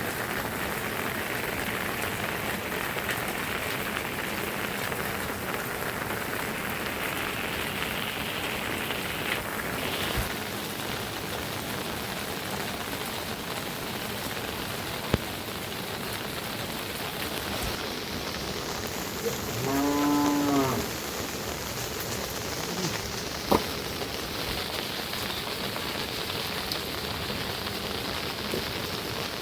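Steady rain falling. About two-thirds of the way in, a cow moos once for about a second. Two short sharp knocks stand out, one around the middle and one shortly after the moo.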